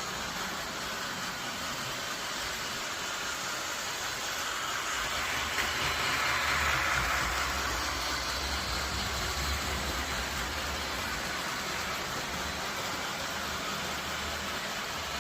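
Train running along the track, a steady rumbling noise that swells about five seconds in and then eases off.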